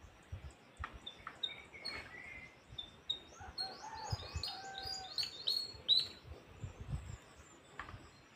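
Wild birds singing: a run of quick, short whistled chirps and falling notes, busiest in the middle, over a few low thuds.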